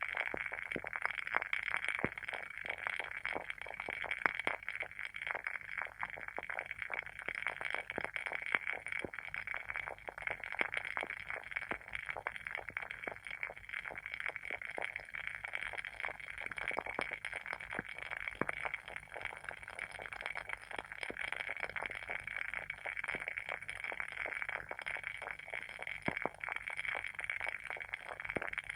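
Wooden candle wick burning with a steady, dense, irregular crackle, like a small fire, over a soft hiss.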